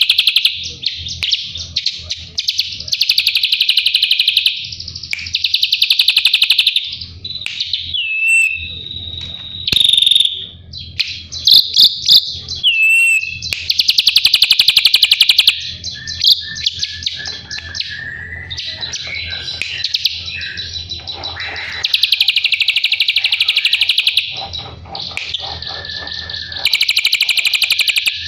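Drongo singing: loud, fast rasping chatter in phrases of about two seconds, repeated several times and broken up by clear whistled notes, short downward slurs and a run of repeated lower notes.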